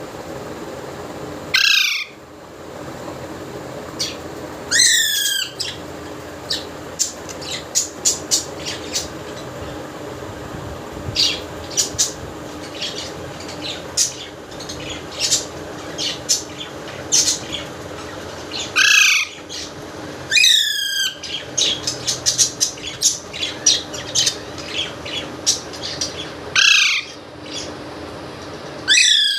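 Pet parrot squawking: about six loud, harsh screeches spaced through the stretch, two of them in quick succession, with many short chirps and clicks in between. A steady low hum runs underneath.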